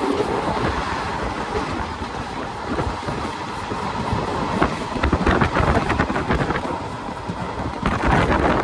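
Passenger train running along the track: a steady low rumble with rattling clatter from the wheels and coach, the clatter growing busier in the second half.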